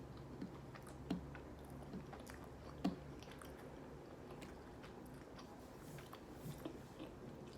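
A person chewing a mouthful of Chicken McNuggets close to the microphone: faint, scattered wet mouth clicks, with a couple of louder ticks about a second and about three seconds in.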